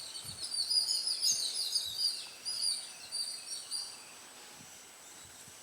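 Birds chirping: a run of quick, high twittering notes that dies away about four seconds in.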